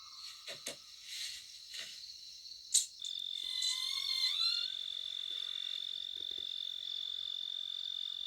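Night-time insect and frog chorus: a steady high-pitched insect trill sets in about three seconds in and holds. Before it come a few short frog-like calls and sharp clicks.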